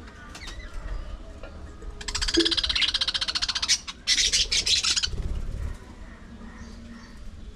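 Budgerigars chattering: a long burst of rapid, scratchy high chatter about two seconds in, then a second loud burst about four seconds in, with quieter chirps between.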